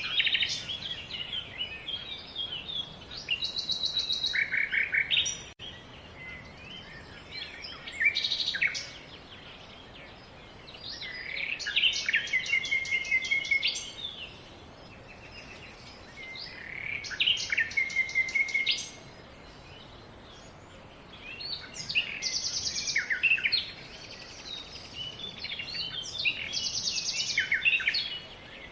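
A songbird singing in repeated phrases of two to three seconds, one every four to five seconds, made of quick twittering notes and fast trills.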